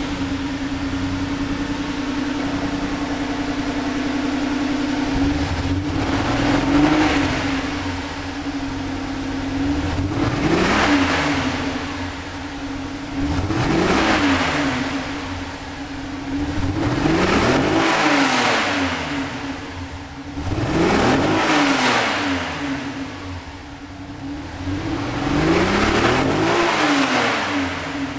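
Toyota Supra's naturally aspirated 3.0-litre inline-six 2JZ-GE engine being revved repeatedly: a steady idle, then from about five seconds in about six blips of the throttle, each rising and falling in pitch, every three to four seconds.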